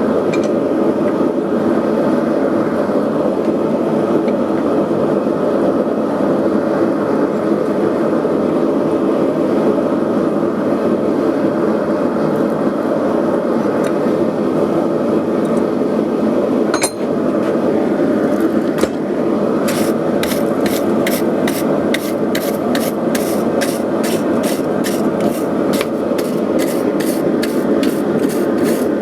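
Single-burner gas forge running with a steady roar. About twenty seconds in, quick regular metal-on-metal strokes start over it, about three a second.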